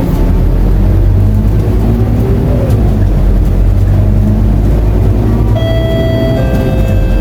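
Scania K230UB city bus's diesel engine running, heard from on board as a steady low drone. About five and a half seconds in, a ringing chime of several steady tones sounds over it for a second or so.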